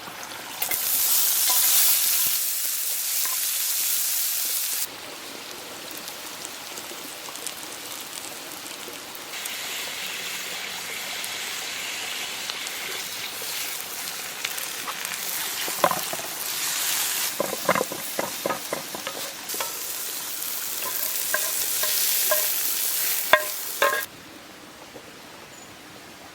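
Food frying and sizzling over a wood fire, a steady hiss that jumps in level several times, with a string of sharp clicks and knocks in the second half.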